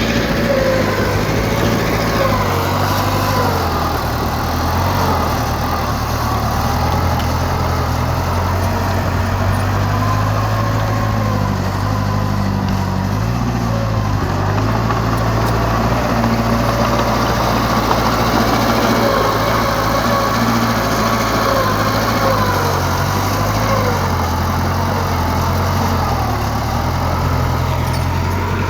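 Diesel engine of a heavy earthmoving machine running steadily under work, its pitch wavering up and down.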